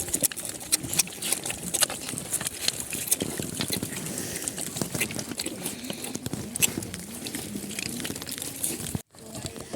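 Pigs grunting and moving about amid a steady crackle of many small clicks. The sound drops out for a moment near the end.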